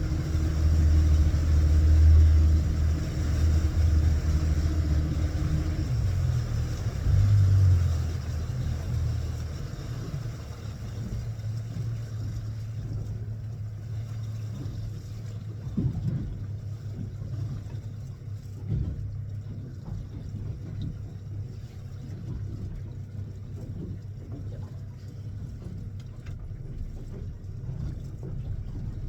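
A fishing boat's engine running loud and low for the first several seconds, then easing back to a quieter, steady low hum. A few knocks come in the second half.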